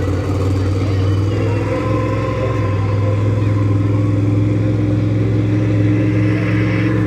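Monster truck engine running at a steady, loud, even pitch.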